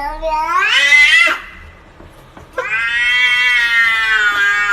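A cat giving two long, drawn-out yowls. The first rises in pitch and breaks off about a second in; the second starts past halfway and is held steady.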